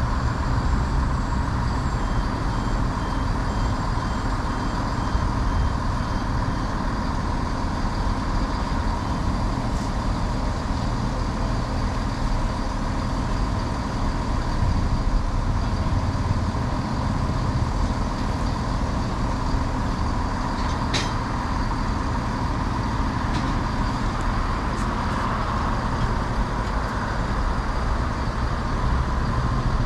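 Diesel multiple-unit train idling steadily at the platform, a low even engine rumble with a faint steady whine, broken by one sharp click about two-thirds of the way through.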